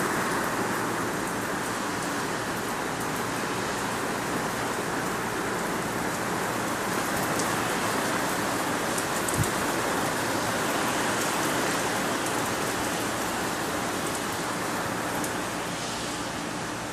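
Heavy rain falling steadily, a dense even hiss of drops on hard surfaces, with one brief knock about halfway through.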